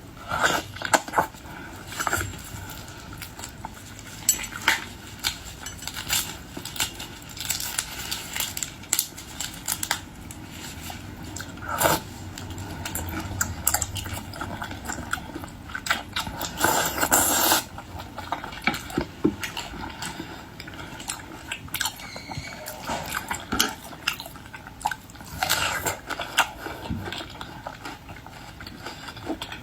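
Close-up eating of boiled seafood: chewing and biting, with frequent clicks and clatter of dishes and cutlery.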